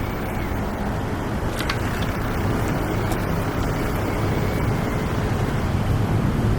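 City road traffic noise: a steady rumble of passing cars and other vehicles.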